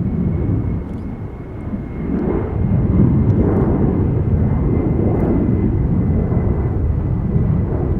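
Boeing 747-400F cargo jet departing at takeoff power: a loud, deep jet rumble that swells about two seconds in and stays strong.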